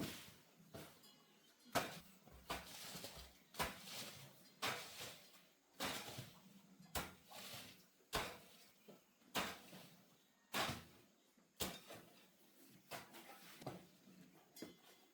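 A hand tool striking earth over and over in a steady rhythm, about one stroke a second. Each stroke is a sharp hit followed by a short scrape, as in digging with a hoe.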